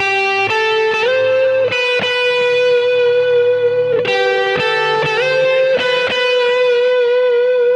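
Gibson 355 electric guitar played through a Kemper Profiler profile of a totally cranked Fender Twin amp with a lot of effects. It plays a slow lead line of long sustained notes, sliding up in pitch a few times.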